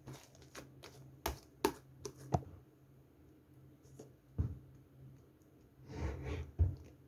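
Slime being handled by hands, giving a series of sharp clicks and pops, then a denser squishing passage about six seconds in.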